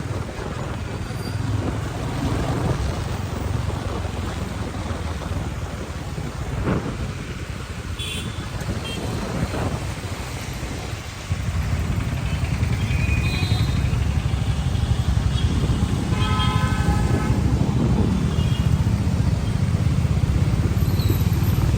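Steady rumble of wind and road noise while riding a motorcycle through traffic, getting louder about halfway through. Vehicle horns sound briefly about eight seconds in and for a longer stretch around sixteen seconds.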